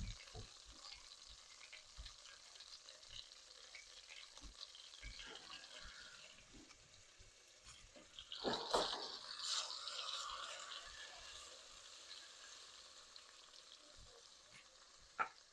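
Food frying in a cooking pot, a faint sizzle with scattered ticks. A louder stretch of stirring or scraping comes about eight seconds in and fades over the next few seconds.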